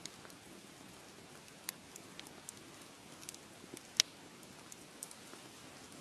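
Wood fire crackling: a steady soft hiss with scattered sharp pops, one much louder pop about four seconds in.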